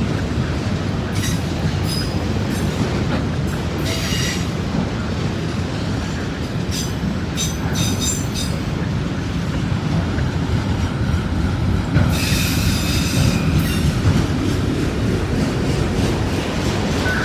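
Long freight train of auto rack cars rolling past close by, a steady rumble of wheels on rail. Wheel squeals come through several times.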